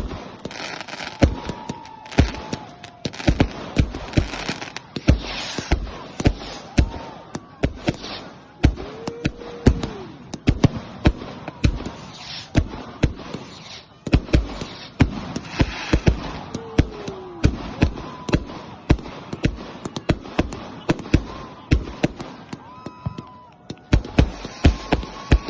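Fireworks going off: a long, irregular run of sharp bangs and cracks, several a second, with a few brief whistling tones among them.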